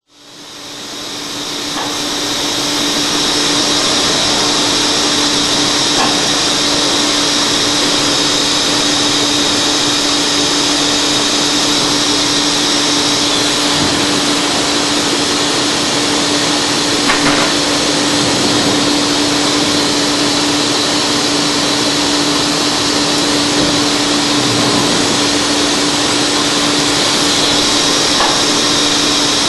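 Studer S41 CNC cylindrical grinding machine running: a steady hiss over a constant low hum, fading in over the first few seconds.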